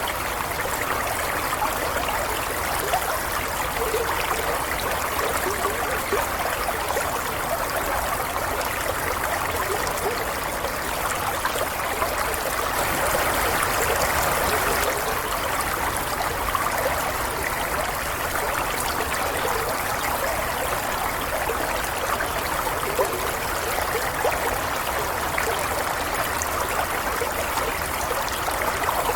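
Running water of a stream flowing and trickling, a steady babbling with small splashes and gurgles.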